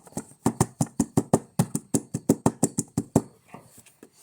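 Rapid run of sharp taps or knocks on a hard surface, about seven a second, stopping a little after three seconds in, followed by faint scraping.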